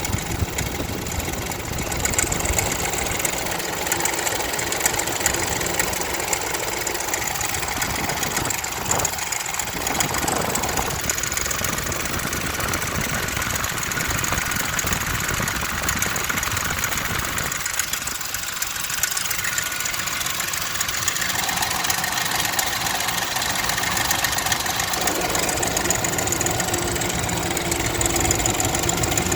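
2000 Ford Expedition's 4.6-litre V8 running steadily with the mystery noise the owner has been chasing for months; he thinks it comes from the belts, most likely the belt tensioner pulley, though he is not sure and also wonders about a flat rocker.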